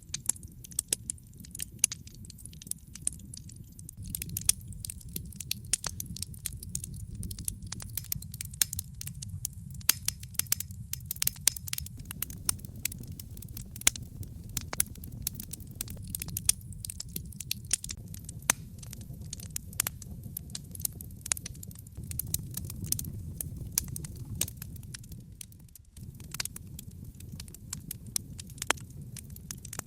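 Logs burning in a fireplace: dense, irregular crackles and sharp pops over a steady low rumble of the flames.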